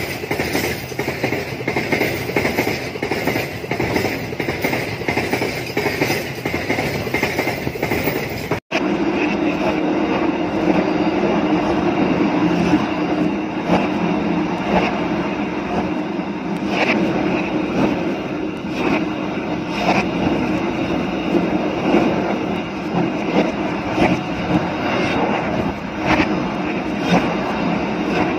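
Freight train wagons rolling past, wheels clattering on the rails. After an abrupt cut about nine seconds in, a steady rumble of a moving train with irregular wheel clicks over the track.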